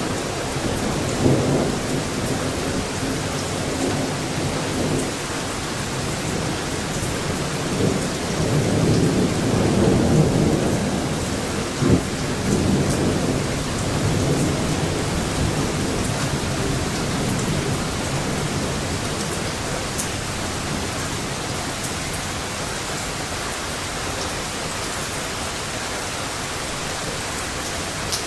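Thunder rolling over steady rain: a short rumble near the start, a longer rumble building in the first half with one sharp crack, then just the even hiss of rain as the rumbles fade.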